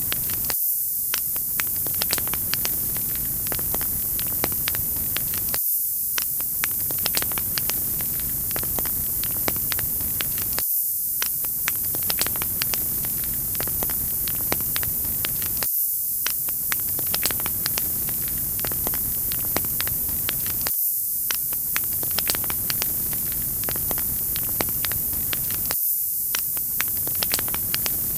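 Wood fire crackling in a fireplace: a steady hiss with frequent small sharp pops and snaps, and a brief dip in the sound about every five seconds.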